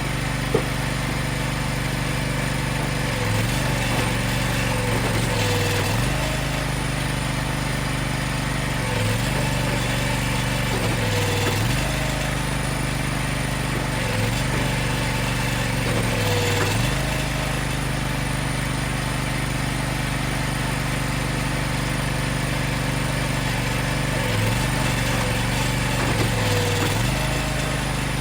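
Engine of firewood-processing equipment running steadily, its pitch dipping briefly and recovering several times at irregular intervals. A single sharp click sounds near the start.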